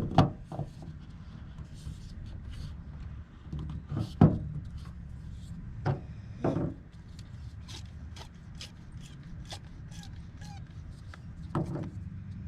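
A handful of knocks and clunks, such as gear being handled, over a steady low hum. The two loudest come at the start and about four seconds in.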